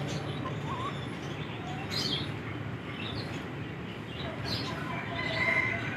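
Scattered short bird chirps over a steady low background hum, with a longer pitched call near the end.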